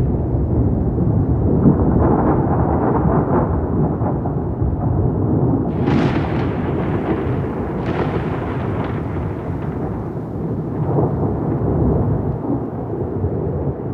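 Rolling thunder rumbling deeply and continuously, with two sharp cracks of nearer thunder about six and eight seconds in.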